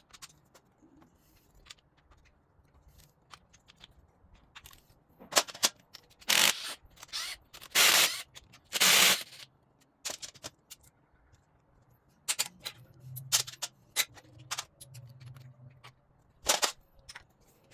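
Clattering and knocking of tools and parts being moved about a garage workbench during cleanup. There are scattered sharp clicks, with a few loud scraping, rustling bursts in the middle.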